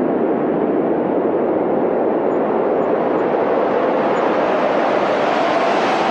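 Windstorm: a steady loud rush of wind, brightening and rising in pitch toward the end as a gust builds.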